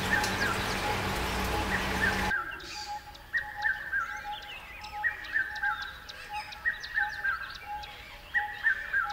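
Bird calls repeating about once a second, each a short phrase of downward-sliding notes. A steady hum and hiss underneath cuts off suddenly about two seconds in while the calls carry on.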